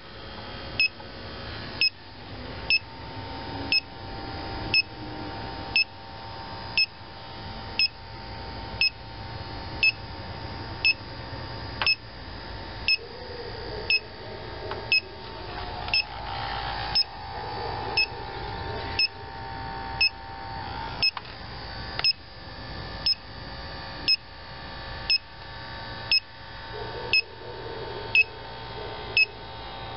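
Inficon TechMate electronic refrigerant leak detector beeping about once a second at an even rate while sniffing the bottom of an R-22 outdoor unit. The rate holds steady without speeding up, so no refrigerant is being picked up.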